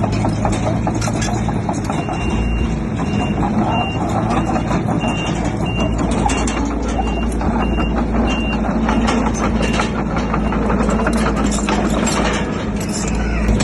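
Diesel engine of heavy earthmoving equipment running steadily, with clanking throughout. A high-pitched reversing alarm beeps repeatedly from about two seconds in until about ten seconds in, the sign of a machine backing up.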